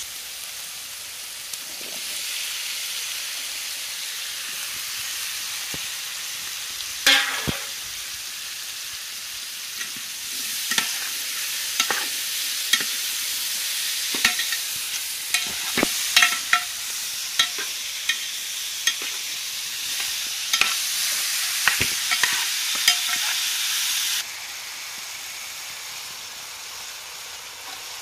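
Chopped tomatoes and cucumber frying in oil in a metal pot, sizzling steadily, while a metal spoon stirs and scrapes against the pot with many sharp clinks. The sizzling drops suddenly near the end.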